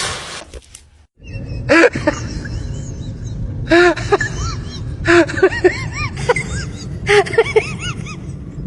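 An animal making repeated short high-pitched calls, each rising and falling in pitch and coming in small clusters, over a steady background hiss.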